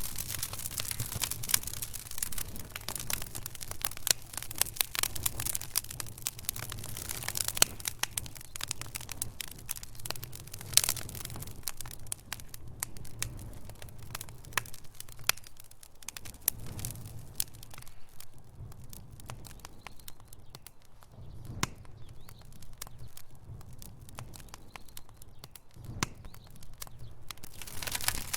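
Wood fire in a fireplace crackling: dense irregular pops and snaps of burning logs over a low rumble of flame, with a few sharper, louder snaps and a sparser stretch past the middle.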